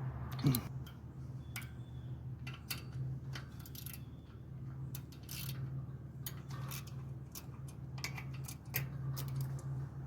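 Irregular light clicks and metallic taps of hand tools and parts being handled on a lawnmower's Kawasaki V-twin engine during an ignition coil swap, over a steady low hum.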